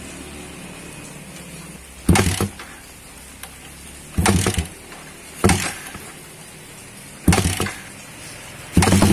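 Yamaha Vixion's single-cylinder engine through an open racing exhaust, ticking over, then blipped in four short, sharp revs. Near the end it is revved up and held at high revs, with a loud, fast pulsing exhaust note.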